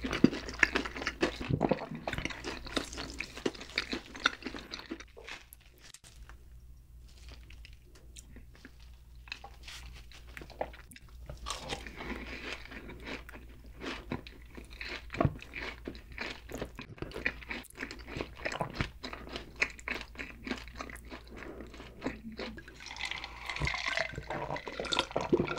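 Close-miked chewing of fried chicken and cheese balls: crunching with wet mouth sounds, quieter for a few seconds after the start and then busier again. Near the end come swallows from an iced drink.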